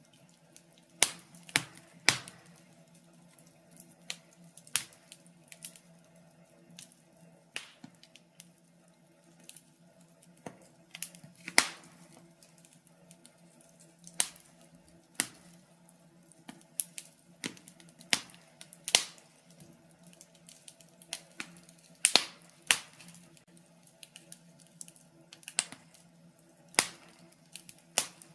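Wood fire crackling in a fireplace: irregular sharp pops and snaps, some in quick clusters, over a faint steady background.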